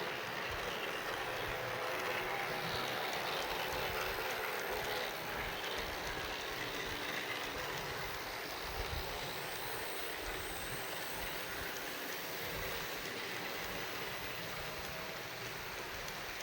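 HO-scale model freight trains running on layout track: a steady rolling rattle of small metal wheels on rail with the hum of the locomotive motors.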